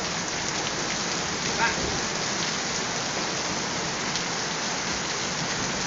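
Heavy rain pouring down steadily onto a paved street and pavement, a constant dense hiss of a downpour.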